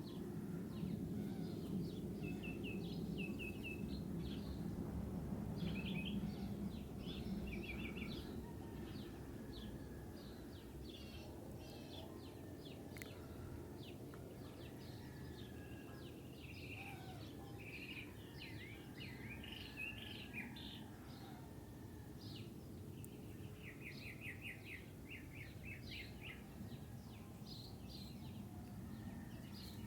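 Small birds chirping and calling repeatedly over a low, steady rumble. The rumble is louder for the first several seconds, then eases off.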